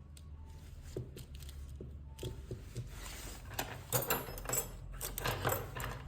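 Small tools and phone parts being handled on a repair bench during an iPhone XR battery replacement. A few separate clicks and taps come first, then about three seconds in a busy run of clicking, scraping and rustling, over a steady low hum.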